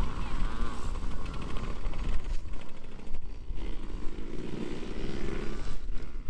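Dirt bike engines revving as the bikes race around the track, their pitch rising and falling.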